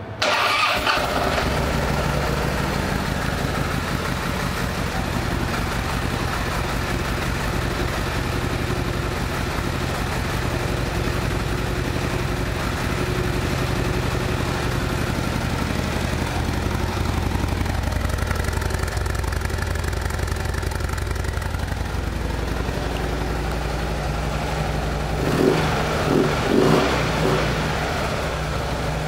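Harley-Davidson Dyna Fat Bob CVO's Screamin' Eagle 110 V-twin engine starting and then idling steadily, with three short throttle blips near the end.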